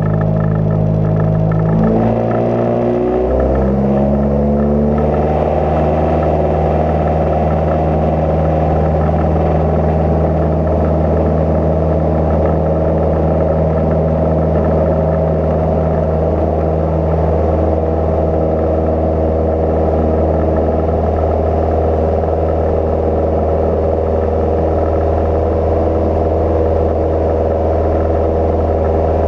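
Cozy Mk IV's piston engine and pusher propeller heard from the cockpit. The pitch climbs between about two and five seconds in as power comes up, then holds as a steady drone.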